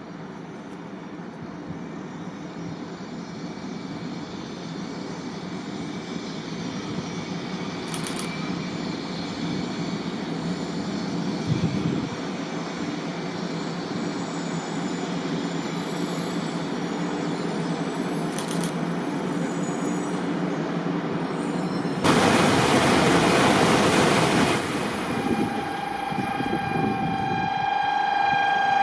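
500 TYPE EVA Shinkansen (500 series) pulling into a station platform: steady running noise of the train that grows gradually louder. About 22 seconds in a much louder rush of noise starts suddenly and lasts a couple of seconds. A steady tone comes in near the end.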